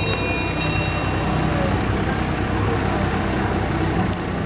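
Diesel engine of Redwood Valley Railway's number 2, a small freight-only diesel locomotive, running steadily with a low engine hum as it pulls a train.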